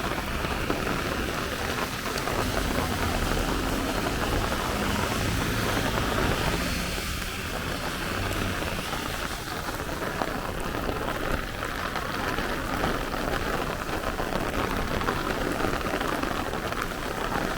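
Heavy rain pouring down steadily, pattering on streets and surfaces in a downpour.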